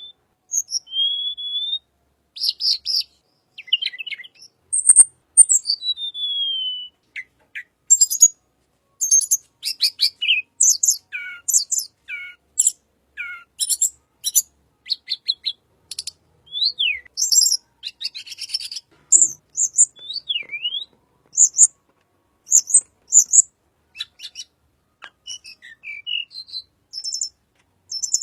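Tledekan songbird singing a rapid, varied song of short chirps, quick whistled glides up and down, and buzzy trills, with hardly a pause.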